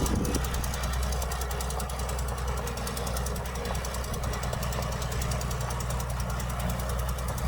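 Heavy diesel engine of earthmoving machinery running steadily with a fast, even knocking beat, easing slightly about half a second in.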